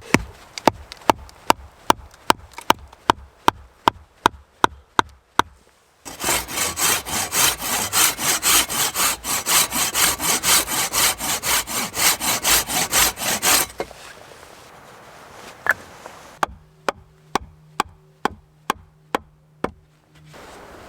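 A hand saw cutting dead wood in quick, steady back-and-forth strokes for about eight seconds. It comes between runs of sharp, evenly spaced knocks, about three a second, as of wood being chopped or struck.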